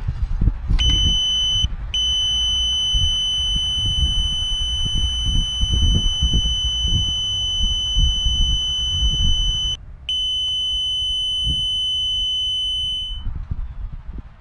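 Heron dipper-T water level meter's buzzer sounding a steady high-pitched tone, the signal that its probe has touched water. The tone drops out twice briefly and cuts off about a second before the end.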